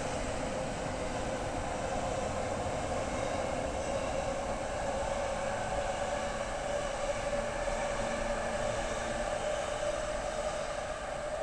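JR Yamanote Line E231-500 series electric commuter train running past on the tracks, a steady run of wheel-on-rail and motor noise that begins to fade near the end.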